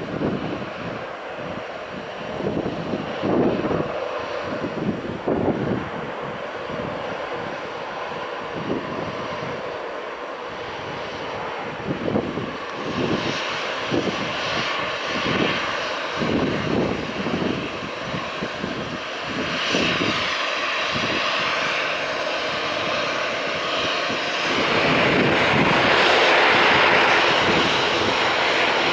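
Airbus A321-211's CFM56 jet engines at take-off power on departure, a steady jet rush that builds and grows loudest over the last few seconds. Irregular low rumbles come and go through the first half.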